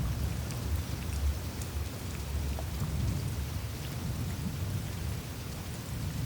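Melting surface of a glacier ice sheet: faint scattered ticks and drips of meltwater over an even hiss of water trickling through the ice, with a steady, wavering low rumble beneath.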